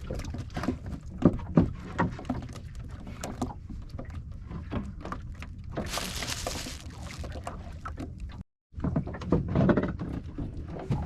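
Irregular knocks and thuds against a small fishing boat over a low steady rumble, with a short burst of hissing about six seconds in; the sound drops out for a moment a little after eight seconds.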